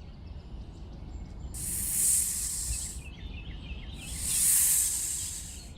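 A snake hissing: two long hisses of about a second and a half each, with a pause between them.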